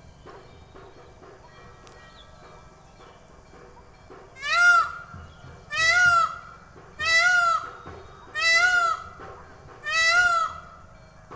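Peacock calling: a series of five loud, evenly spaced calls, each rising and falling in pitch, starting a few seconds in.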